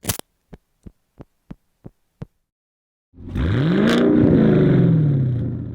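A run of sharp clicks, about three a second, then the 2019 Camaro SS's V8 with its muffler deleted revs up once and falls slowly back, the exhaust loud and open.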